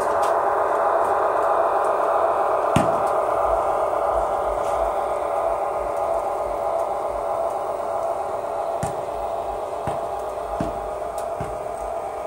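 HO-scale model diesel locomotive's DCC sound decoder playing a diesel engine running sound through its tiny speaker, thin and buzzy, slowly getting quieter. A few sharp clicks are heard along the way.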